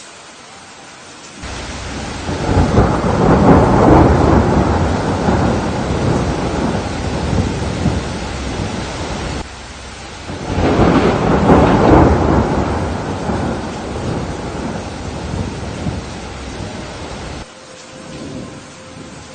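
Steady rain with two long rolls of thunder, the first swelling in about a second and a half in and the second about ten seconds in. Each roll ends abruptly, back to the rain alone.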